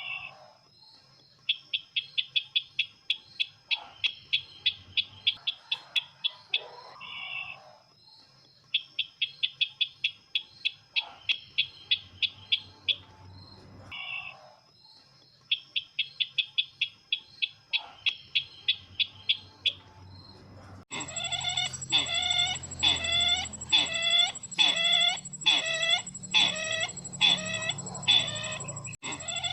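Recorded call of the sisintar ladang bird, played as a bird-luring call: three bouts of rapid, evenly repeated high notes, about eight a second and three to four seconds each, with short lower calls between them. About 21 seconds in it switches to a louder, slower series of down-sliding calls, one or two a second, over a steady high whine.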